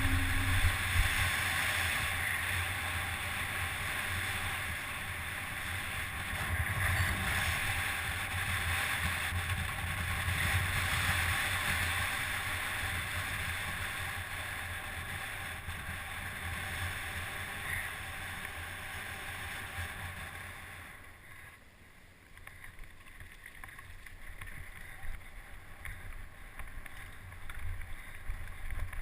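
Wind rushing over a camera microphone, with a steady low rumble underneath. It fades down about three-quarters of the way through and picks up again near the end.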